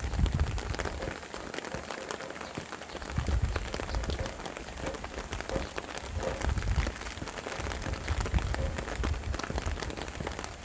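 Steady rain falling, with many distinct drops hitting close by, and gusts of wind that swell and fade every few seconds as a low rumble.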